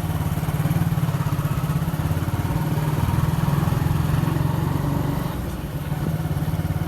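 Motorcycle engine running steadily while riding, with a rapid low pulse that eases off slightly about five seconds in.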